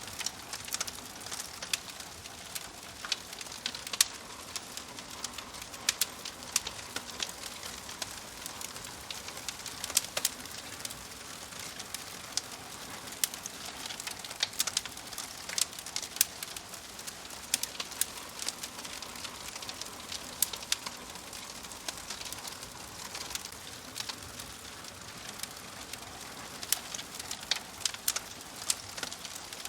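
Wood fire crackling in a wood-burning stove: frequent sharp, irregular pops and snaps over a steady soft hiss.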